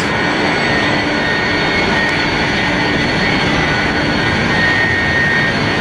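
Jet airliner engines running with a steady, loud rush and a faint whine.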